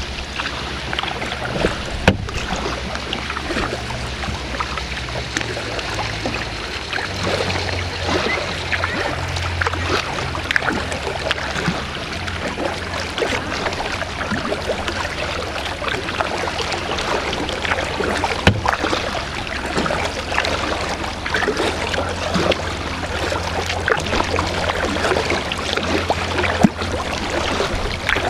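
Kayak paddling: the paddle blades dip and splash in the water over and over, with a constant trickle and drip of water.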